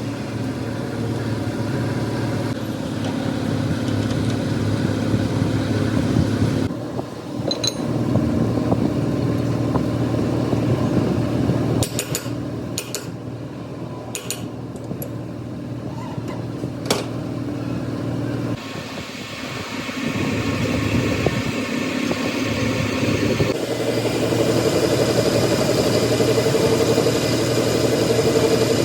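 Heavy machinery running steadily, cut into several segments that change suddenly, with a few sharp clicks about halfway through.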